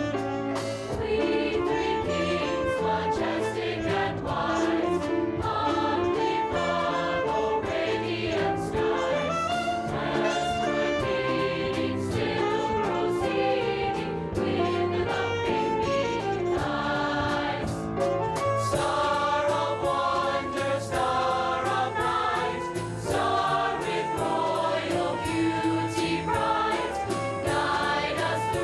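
A high school choir singing a holiday song with instrumental accompaniment.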